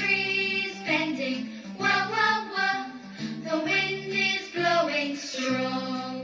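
Children's phonics song for the letter W: a sung melody over simple musical backing.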